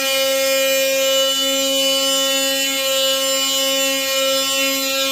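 DeWalt 20V Atomic cordless oscillating multi-tool running at a constant speed, a steady high-pitched buzz with no let-up.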